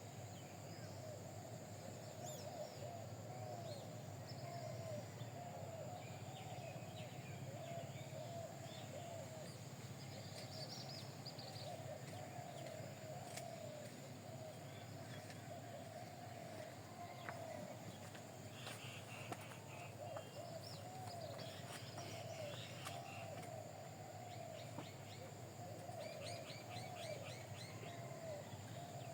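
Several birds calling together: a low call repeating without a break, with higher chirps and short trills scattered over it, and a steady low hum underneath.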